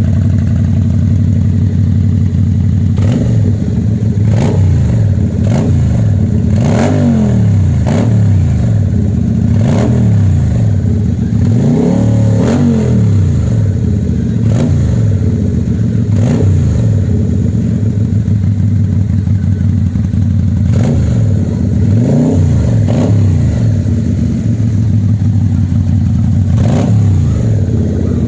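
Motorcycle engine idling through an SM Sport V16 aftermarket muffler with a deep bass exhaust note. The throttle is blipped repeatedly into short revs that rise and fall back to idle, with a couple of longer idle stretches in the second half.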